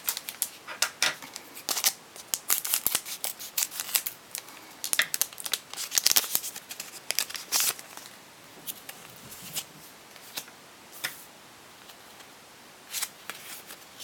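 Pokémon booster pack being opened and its cards handled: a quick run of sharp crinkles and snaps of the foil wrapper and card stock, thinning out after about eight seconds.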